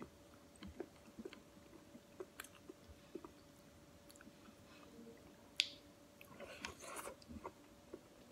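Faint chewing, with small wet clicks of fingers picking at chicken curry and rice, eaten by hand. A sharper click comes about five and a half seconds in, and a busier patch of small clicks follows at about six and a half to seven seconds, over a faint steady hum.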